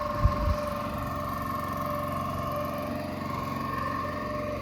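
Boat engine running steadily with a constant drone. Two short low thumps come in the first half-second.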